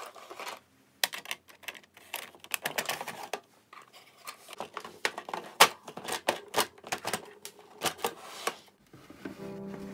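Rapid, irregular clicking and tapping. Soft background music comes in near the end.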